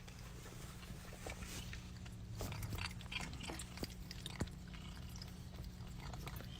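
A pet chewing food, with irregular small crunching clicks over a low steady hum.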